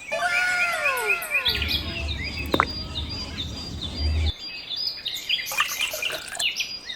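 Birds chirping: many quick, repeated high chirps, opening with a series of falling whistled notes. A low hum runs underneath from about a second and a half to about four seconds in.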